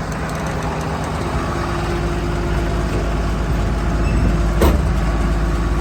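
A 2010 Freightliner bucket truck's 6.7 Cummins diesel running steadily with the PTO engaged, slowly getting a little louder. There is a single sharp knock about four and a half seconds in.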